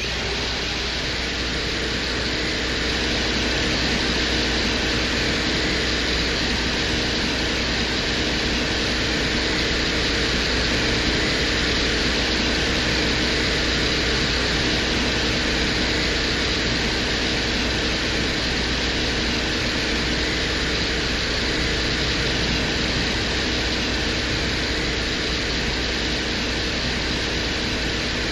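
Venera 14 lander's microphone recording from the surface of Venus: a steady hiss like static, with a low hum and a few faint steady tones underneath. It steps up in level right at the start.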